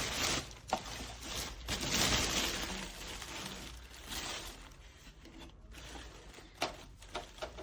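Rustling of packaging as the vacuum cleaner body is unpacked and handled, louder in the first few seconds, then a few light clicks and knocks near the end.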